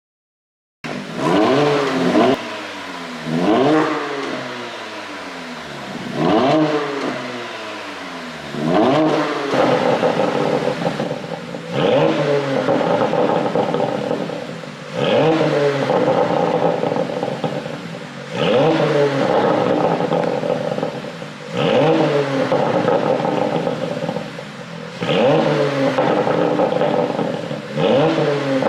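Porsche Panamera 4 E-Hybrid's twin-turbo V6 revved while parked, about ten throttle blips, each rising and falling back, roughly every two and a half to three seconds. The first few are short and the later ones are held higher for longer. This is an exhaust test of pops and crackles on the overrun.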